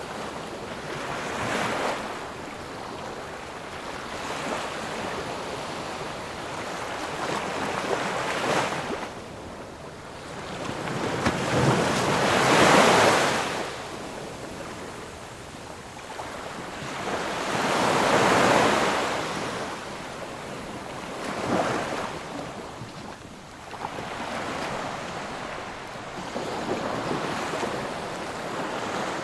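Ocean surf: waves breaking and washing up the shore, a rushing sound that swells and fades about six times, the two strongest near the middle.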